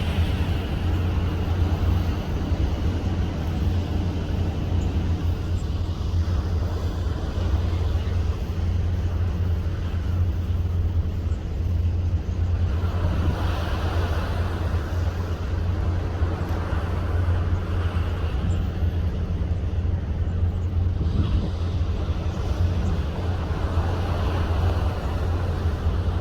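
Steady deep rumble of a ship under way at sea, with a rushing noise of wind and water that swells twice, about halfway through and again near the end.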